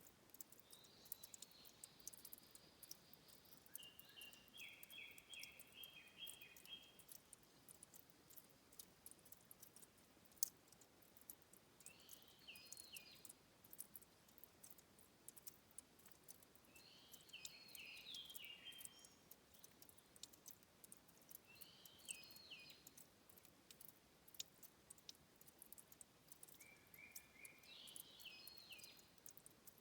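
Faint water dripping at a stream's source: a continual scatter of tiny, sharp clicks. Over it, a small bird sings about six short, chirped phrases a few seconds apart.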